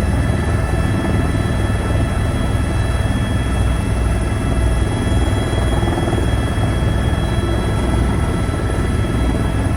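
Helicopter running with a steady, loud rotor and engine drone under a thin, steady high whine.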